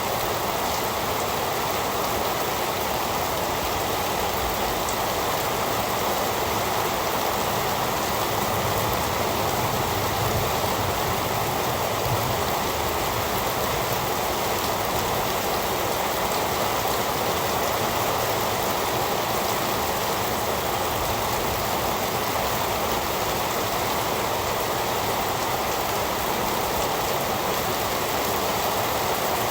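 Steady heavy rain falling, a constant even hiss with no thunder or distinct drops standing out.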